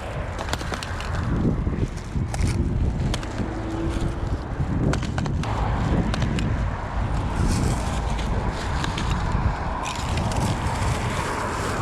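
Footsteps crossing rough ground and vegetation, with scattered scuffs and clicks, over steady road traffic noise.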